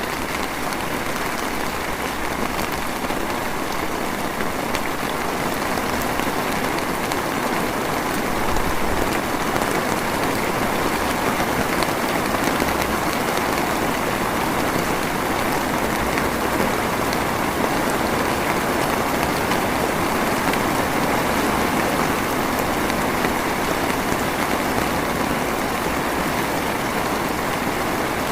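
Drizzling rain falling steadily, an even hiss of many small drops without let-up.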